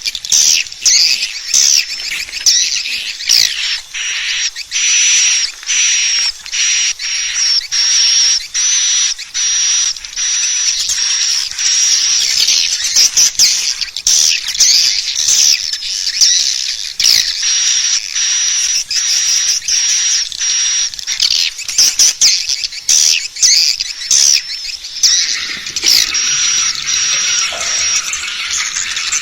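Swiftlets calling: dense, continuous high-pitched twittering made of many quick chirps. This is a swiftlet lure call, the sound played at swiftlet nesting houses to draw the birds in.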